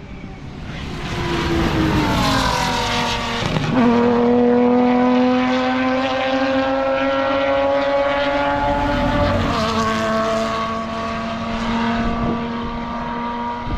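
Sports car engine running hard at high revs. The note falls at first, then holds high and climbs slowly, with a single drop in pitch about nine seconds in.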